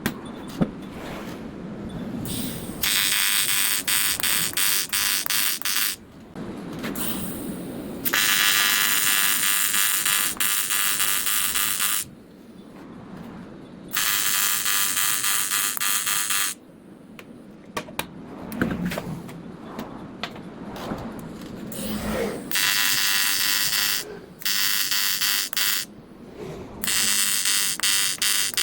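AC TIG welding arc on aluminium, buzzing in about six bursts of two to four seconds each, with short pauses between them.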